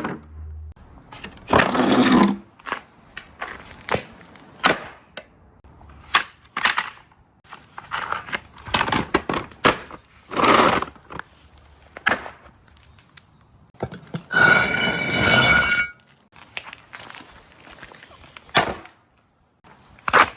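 Marbles rolling and clacking along a marble run: a series of sharp clicks and knocks with short rolling rushes between them. About 14 seconds in a longer rolling run rings with several steady tones before dying away.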